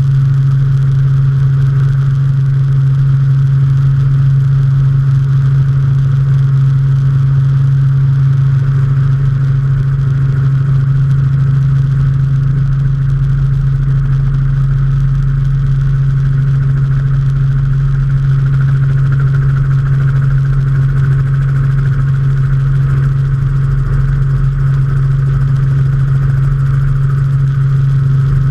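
Robinson R44 helicopter heard from aboard in flight: its six-cylinder piston engine and rotors make a loud, steady drone with a strong low hum that does not change.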